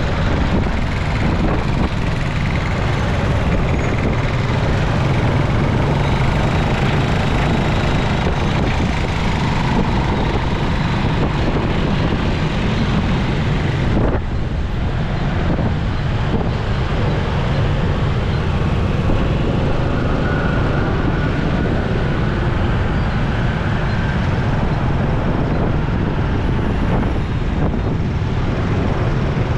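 Steady wind rush on the microphone of a moving motorcycle, mixed with the motorcycle's engine and the surrounding road traffic.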